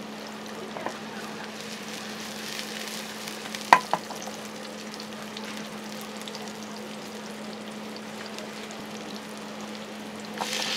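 Diced onion sizzling in hot oil in a frying pan over a gas burner, with a steady low hum underneath. Two sharp clicks come close together about four seconds in, and the sizzling gets louder near the end.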